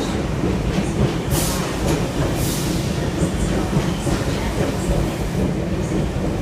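Sydney Trains S set double-deck electric train running into the platform: a steady rumble of wheels and motors, with two short hisses about one and two and a half seconds in.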